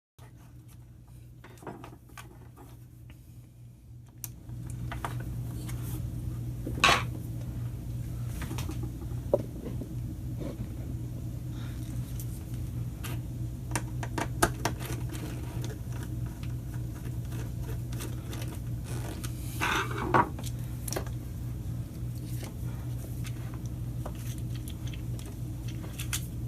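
Scattered small clicks and taps of hard plastic and metal as electrical cord wires are worked into the tight terminals of a replacement plug. Underneath is a steady low hum that gets louder about four seconds in.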